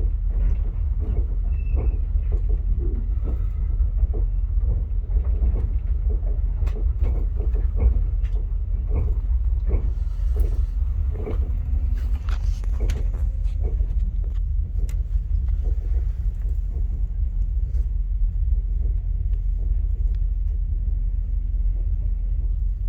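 Via Rail passenger train rolling along the track, a steady low rumble with many scattered clicks and knocks from the wheels and car, which thin out after about fifteen seconds.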